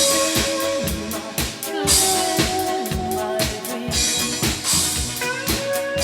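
Drum kit, its snare fitted with a new Evans G2 coated head, played along to a recorded song: a steady beat of kick and snare under the song's melody, with cymbal crashes about two and four seconds in.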